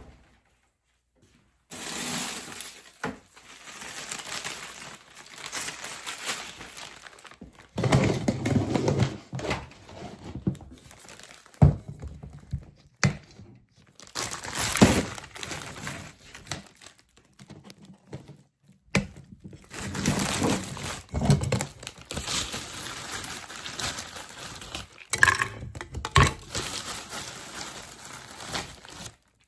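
Handling noises: crinkling and rustling with scattered thunks and sharp knocks, coming and going irregularly after a short silence at the start.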